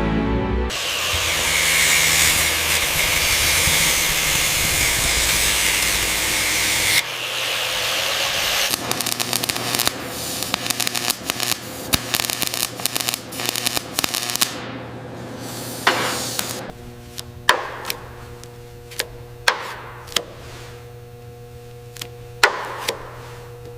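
Metal restoration tool work. First comes several seconds of steady harsh hissing, then a long run of rapid clicks and knocks, and near the end a few separate sharp strikes.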